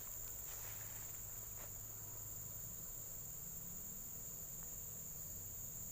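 Insects droning steadily at a high pitch, with a fainter, even higher tone above it.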